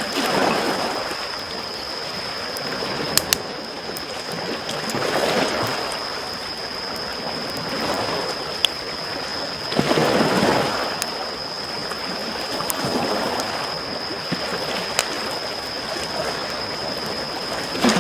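Small waves lapping and washing on a shore, swelling every few seconds, with a campfire's occasional sharp crackles and pops. A steady high-pitched whine sits underneath.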